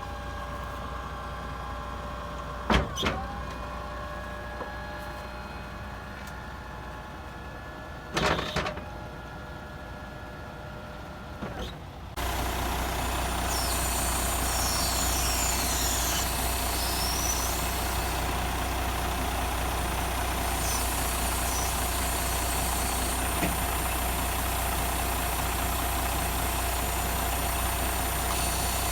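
Scania truck's diesel engine idling steadily, with two short sharp sounds in the first half. About twelve seconds in the sound jumps suddenly louder and stays at that steady higher level.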